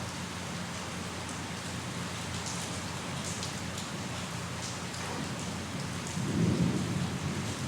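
Steady rain falling, with scattered drops pattering. A brief low rumble of thunder comes in about six seconds in.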